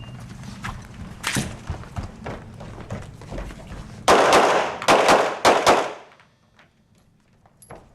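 Handgun shots on a practical shooting course of fire. There is one loud shot about a second in, then a rapid string of shots, echoing, from about four to six seconds in.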